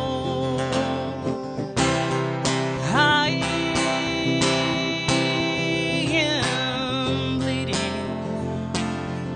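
Acoustic guitar strummed in a steady rhythm as song accompaniment, with a wordless sung note that glides up about three seconds in, wavers while held, and slides back down a few seconds later.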